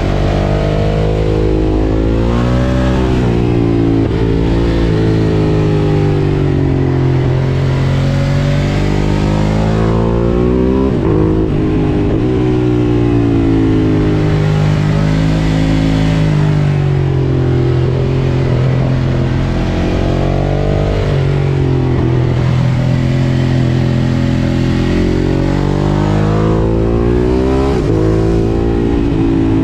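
Ducati Monster 1200 S's L-twin engine through an Akrapovič exhaust, ridden hard: the engine note rises sharply under acceleration, drops back as the rider shifts or rolls off, then climbs again, several times over, with wind and road noise underneath.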